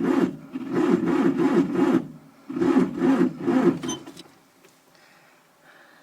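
Starter motor cranking the cold Fiat 780 DT tractor's diesel engine in short rhythmic bursts with brief pauses, the engine not catching; the cranking stops about four seconds in. The owner takes the failure to start for a battery without enough power.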